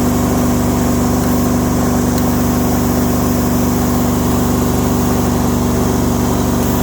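Hydramaster Boxxer truckmount carpet-cleaning unit running steadily at constant speed, its new 23-horsepower Vanguard engine humming evenly with no change in pitch.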